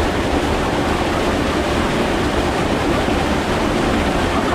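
Mountain stream water rushing, a steady loud noise.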